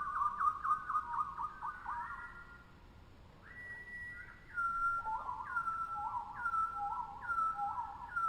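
Tropical birds singing whistled calls: a fast trill at first, then a held whistle, then a string of repeated down-slurred whistled notes about one a second.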